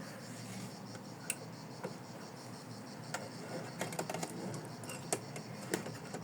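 Light, irregular clicks and taps over a faint steady hum, around a home embroidery machine at the change to black thread.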